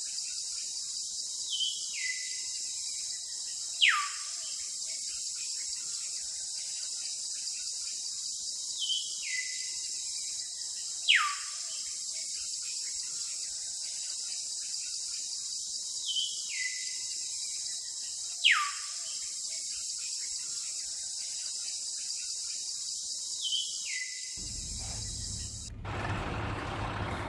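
Looped nature ambience: a steady high insect buzz, with a bird-like call repeating about every seven seconds, each a short stepped falling note followed by a sharp downward whistle. Near the end the ambience cuts off and a low hum comes in.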